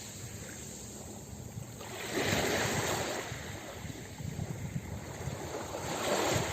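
Ocean waves breaking and washing up on a beach, one wave surging in about two seconds in and another near the end.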